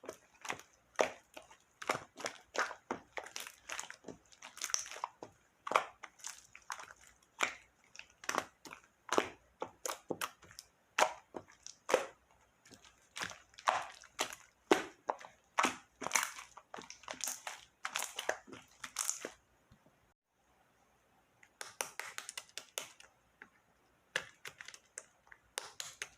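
Slime being squeezed and poked by hand, giving a dense, irregular run of sharp clicking and crackling pops, with a brief pause about twenty seconds in.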